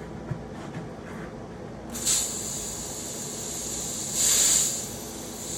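Air hissing out of a car tire's valve stem, a steady hiss starting about two seconds in with a louder burst near the end.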